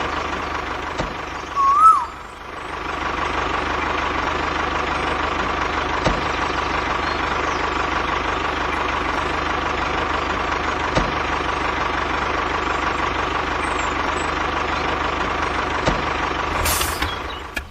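Small motor of a homemade mini tractor/rotavator model running steadily with a constant whine. The sound dips briefly a little after two seconds, then runs on evenly. A short warbling whistle is heard about two seconds in.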